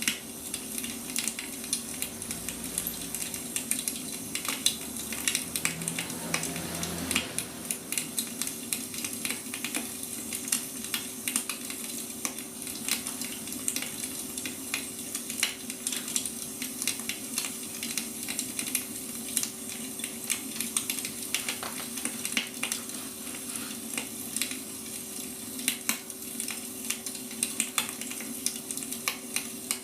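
Wood fire crackling: irregular sharp pops and snaps of burning firewood over a steady hiss, with a steady low hum beneath.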